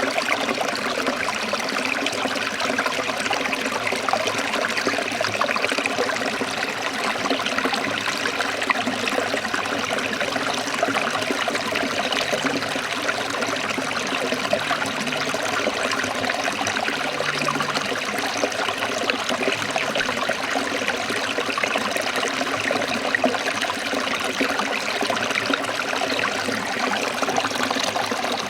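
Forest stream flowing and trickling in a steady, even rush of water.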